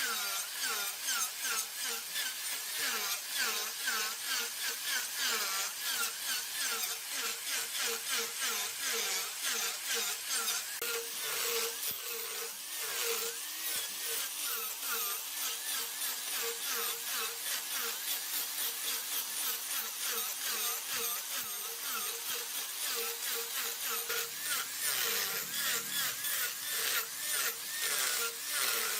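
Wood being turned on a large lathe: a cutting tool scraping the spinning workpiece, a rhythmic shaving sound that pulses a few times a second over the machine's steady hum.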